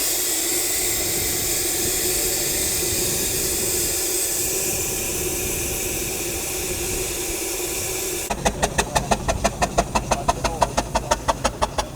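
Steam hissing steadily from an early Foden steam lorry. About eight seconds in, a rhythmic engine beat starts suddenly, about four beats a second.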